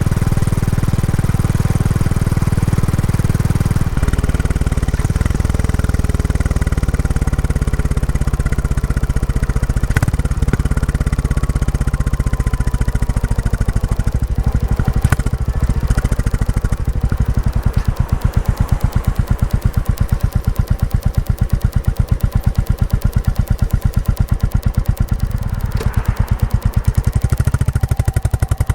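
Royal Enfield Classic 350's single-cylinder engine running through its stock exhaust on the move. The note drops about four seconds in, and the second half has a distinct, even pulsing beat of exhaust pulses.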